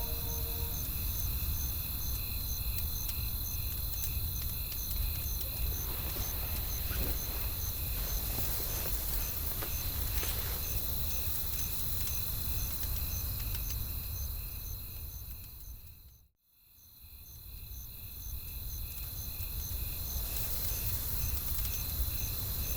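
Night-forest ambience: crickets chirping in a steady pulse of about two chirps a second over a low rumble of wind, with faint crackles. The whole bed fades out to silence about 16 seconds in and fades back up.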